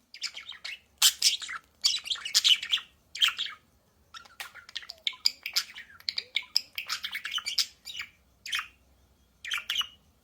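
Budgerigars chirping and warbling in chorus, in quick bursts of high chatter broken by short pauses.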